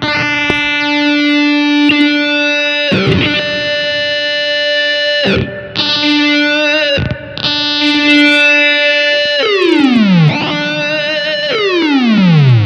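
Electric guitar played through an EarthQuaker Devices Data Corrupter PLL synth/harmonizer pedal: buzzy synthesized notes rich in overtones. A few notes are struck and held at a steady pitch, each swooping in pitch as it changes. Near the end come two long downward pitch slides.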